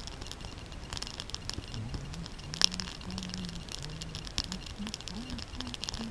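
Wood campfire crackling with many sharp snaps, one louder pop about two and a half seconds in. From about two seconds in, a low wavering hum runs under the crackle.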